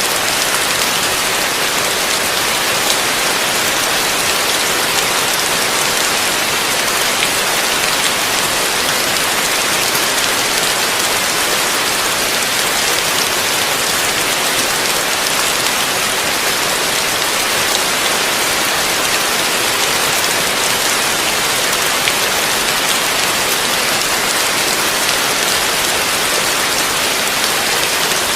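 Heavy rain falling steadily, a dense even hiss with no breaks or surges.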